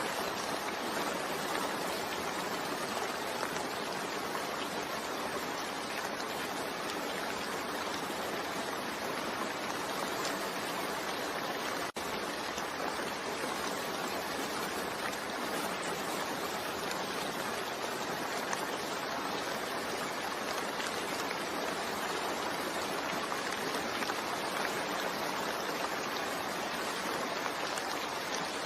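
Steady rain falling, an even hiss of water with no change in strength, broken only by a momentary dip about twelve seconds in.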